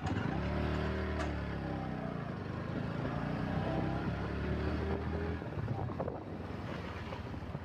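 Bajaj Pulsar NS125's single-cylinder engine running under way: a low engine drone whose pitch dips and rises, dropping away about five and a half seconds in.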